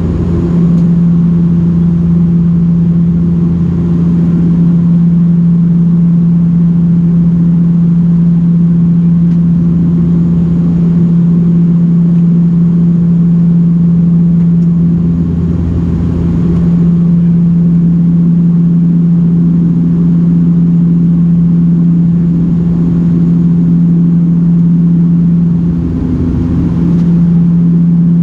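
Steady, loud cabin drone of a Dash 8-400 (Q400) turboprop in flight: the low hum of its two Pratt & Whitney PW150A engines and six-blade propellers, with a deeper throb that swells and fades about every ten seconds.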